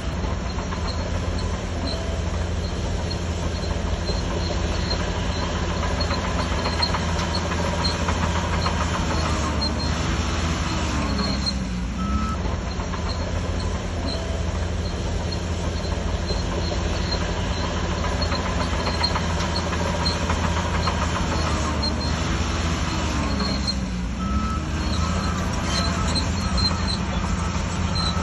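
Shantui DH17C3 crawler bulldozer working, its engine running steadily under load with higher squealing and clattering from the running gear. The sound eases briefly twice.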